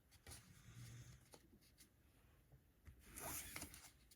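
Faint handling of trading cards and pack wrappers: soft scratchy rustles, with a brief louder rustle about three seconds in.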